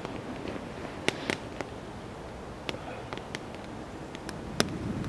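Wood campfire crackling, with sharp pops at irregular moments over a low steady hiss of burning.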